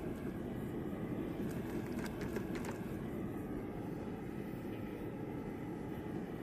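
Propane gas forge burner running with a steady low roar. A few faint metallic clinks come about two seconds in.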